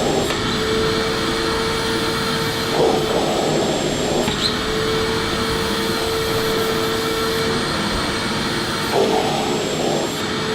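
Electric vacuum cleaner running steadily: an even rushing hiss with a constant hum. The hum briefly wavers and roughens about three seconds in and again near the end.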